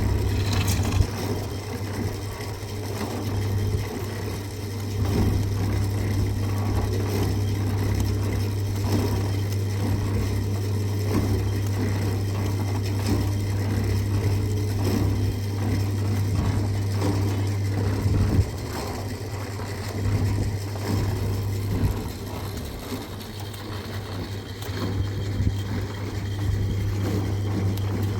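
A motor or engine running steadily with a low hum, with scattered knocks over it.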